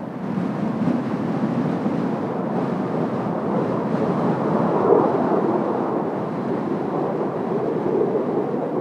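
Jet engine noise from Blue Impulse Kawasaki T-4 jet trainers flying overhead, a steady rushing sound that swells slightly about halfway through, mixed with wind on the microphone.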